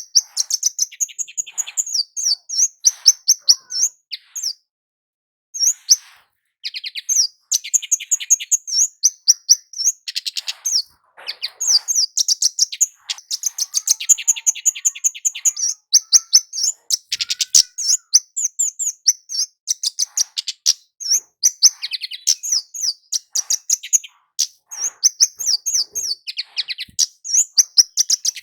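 Kemade jawa (a flowerpecker) singing: rapid, very high, thin chirps and trilled ticks in repeated bursts, with a brief pause about five seconds in.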